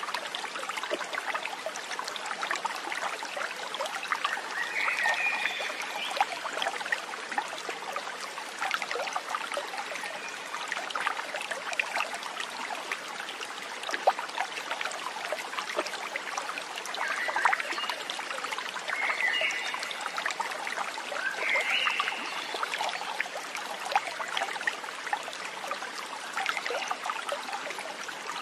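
Running water trickling and burbling steadily, like a small stream, with a few short chirping calls now and then.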